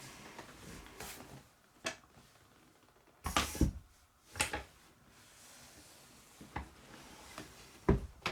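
A series of separate knocks and clunks of handled objects, the loudest a short cluster about three and a half seconds in, with sharp knocks again near the end.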